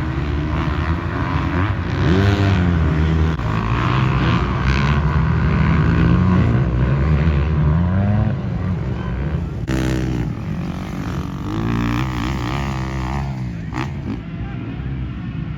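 Motocross dirt bike engines revving, the pitch rising and falling again and again as the throttle is worked.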